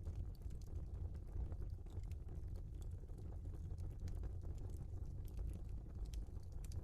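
Logs burning in an open fireplace: a steady low rumble of flames with scattered sharp crackles and pops from the wood.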